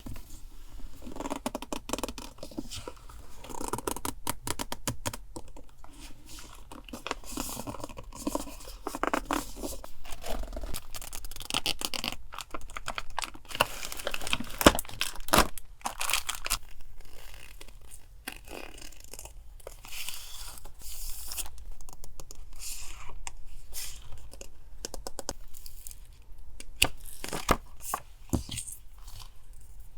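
Close-up sounds of paper and craft packaging being handled: rustling, tearing and scratching of paper, broken by frequent sharp clicks and taps, two of them louder about halfway through.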